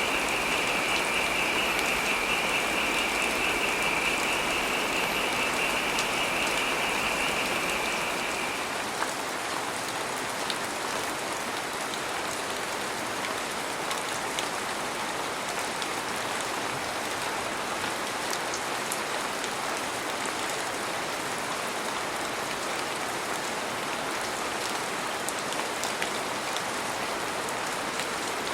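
Heavy rain falling steadily. For the first eight seconds or so a high, rapidly pulsing trill sounds over the rain, along with a low rumble; both then stop and the rain goes on a little quieter.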